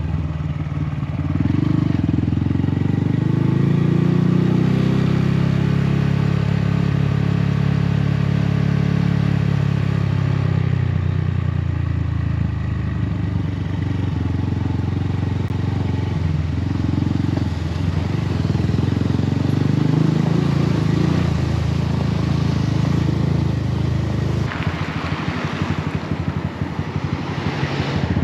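Honda Grom's 125 cc single-cylinder engine through a Yoshimura exhaust, being ridden. The revs climb about a second in and hold, ease off around ten seconds, then pick up again in several pulls, turning rougher and noisier near the end.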